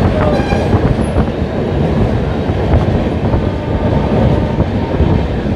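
Express train of LHB coaches running on the rails, heard from an open coach door: a loud, steady rumble of wheels on track.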